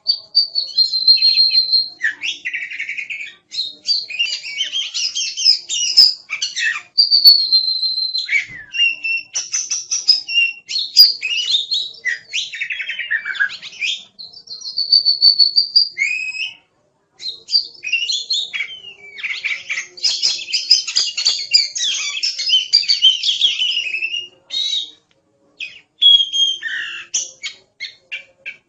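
Oriental magpie-robin (kacer) singing a long, varied song of clear held whistles, quick sweeping notes and rapid chattering phrases, with a few short pauses.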